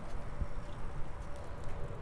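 Wind rumbling on the microphone of a bike-mounted camera as the bicycle rolls along, with light ticks and rattles from the bike.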